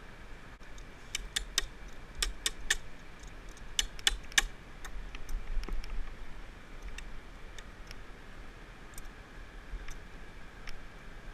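Sharp clicks and taps in quick clusters of two or three, then sparser single clicks, from hardware and tools being handled during work on a power pole.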